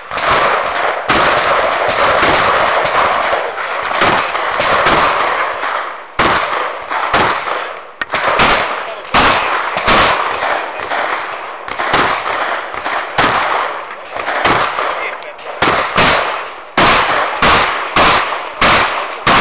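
Shotgun fired over and over in quick strings of shots, dozens in all, each shot followed by a brief echo.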